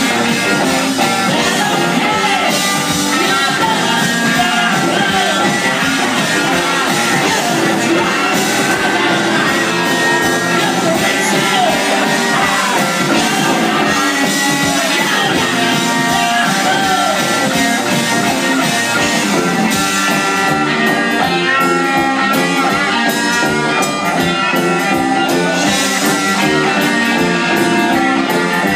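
Rock band playing live, with electric guitar and singing over a loud, steady full-band sound.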